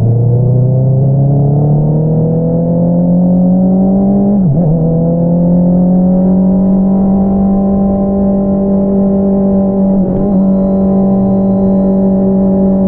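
Honda CBR650R inline-four engine through an Akrapovič single-outlet exhaust, pulling up through the revs for about four seconds. It dips sharply on a gear change, then holds nearly steady revs, with a brief dip about ten seconds in.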